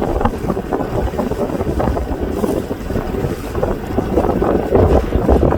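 Wind buffeting the microphone on a moving boat, an uneven low rumble with the boat's running and water noise beneath it.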